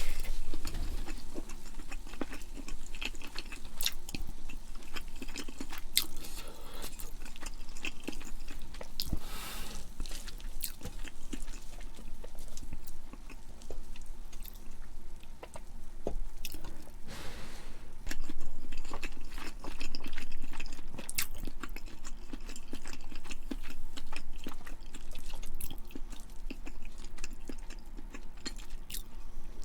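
A person chewing food close to the microphone: a steady run of wet smacks and small clicks from the mouth, with a few louder, longer noisy bursts now and then.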